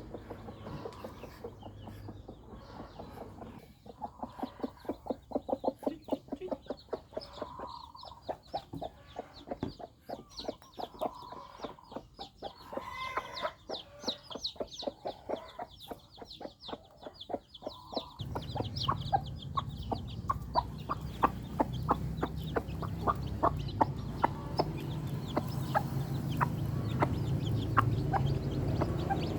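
Chickens clucking in quick runs of short notes, with high rapid peeping of young chicks through the first half. A steady low hum comes in about two-thirds of the way through, under the clucking.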